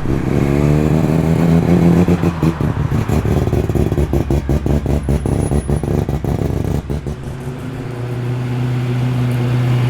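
Performance car engines arriving at low speed: an engine note rises as it is revved early on, then runs with a choppy, pulsing exhaust beat for several seconds, and settles into a steadier low drone about seven seconds in.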